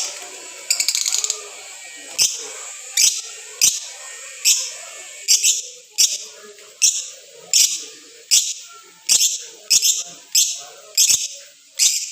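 Lovebird giving short, shrill calls over and over, about one every three-quarters of a second, with a quick chattering trill about a second in.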